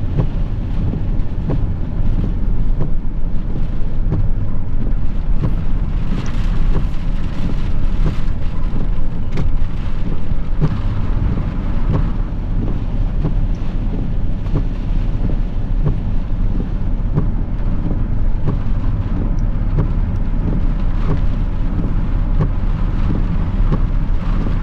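Steady low rumble inside a car, with storm wind and rain on the vehicle and scattered light ticks.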